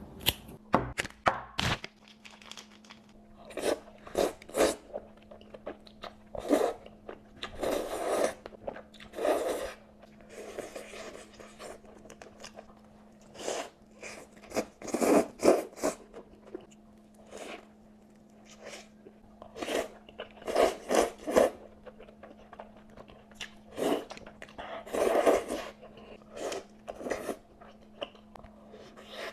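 Close-up eating: bites and crunchy chewing in irregular bursts, a few sharp crackles at a time, with a steady faint hum underneath.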